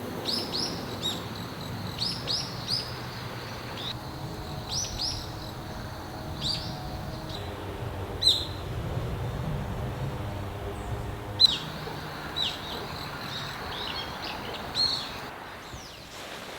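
Small birds chirping: many short, high, downward-sweeping chirps, some in quick runs of two or three, over a steady low background rumble.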